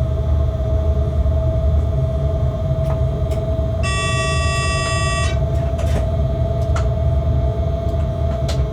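Freight locomotive cab noise: a steady low rumble under a constant hum. About four seconds in, a high tone sounds for about a second and a half, with a few faint clicks scattered around it.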